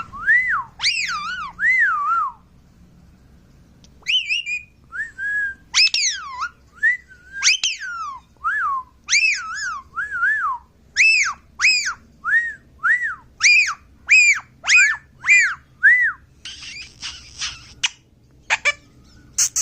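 Ringneck parrot (rose-ringed parakeet) whistling a string of short rising-and-falling notes, pausing briefly after about two seconds, then repeating them quickly at about two a second, with a few scratchy chattering sounds near the end.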